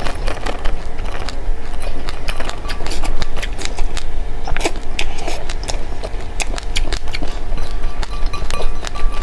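Close chewing and crunching of dry seeds: dense, irregular crackling clicks over a steady low hum.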